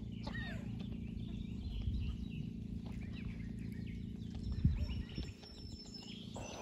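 Scattered short calls from ducks and other birds over a steady low hum, with a brief low thump about halfway through.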